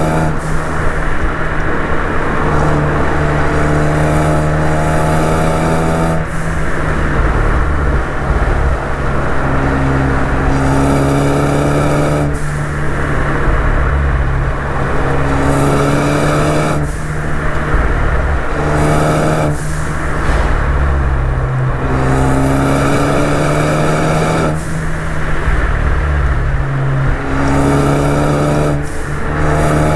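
Ford Focus ST's turbocharged 2.0-litre four-cylinder engine pulling hard in several climbing runs, its pitch rising through each and cutting off suddenly at each lift or shift, about seven times. Heard from outside the car, with road and wind noise under it.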